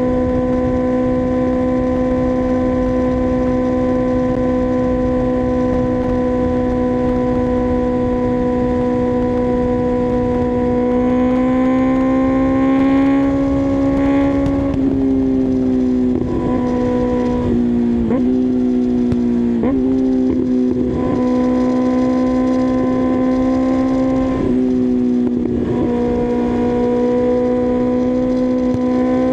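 2024 Kawasaki ZX-6R's inline-four engine running at a steady high-revving cruise, then briefly pulling harder. About halfway through the revs drop, followed by a run of several quick steps down and back up in engine pitch, like gear changes while slowing. It then settles and builds again near the end, with wind and road rumble underneath.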